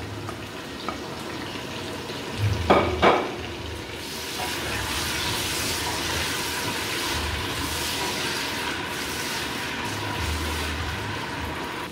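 Chopped red peppers and onions frying in hot palm and groundnut oil in a steel pot, stirred with a wooden spoon. A couple of knocks come about three seconds in, after which the sizzle turns steadier and louder.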